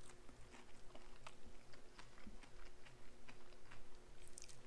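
Close-up chewing of crunchy fried yellowtail snapper in a crushed SunChips coating: a run of small, irregular crunches and clicks.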